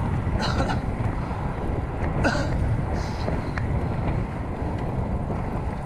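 Wind buffeting the action camera's microphone while the road bike rolls along, a steady low rumble. A few brief clicks or bumps come through about half a second, two seconds and three seconds in.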